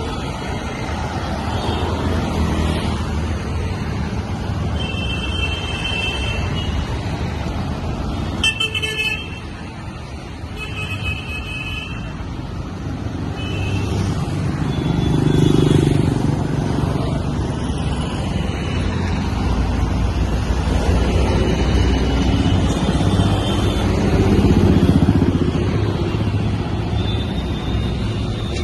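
Busy road traffic, with vehicle engines running and car horns honking several times, some short toots and some held for a second or two.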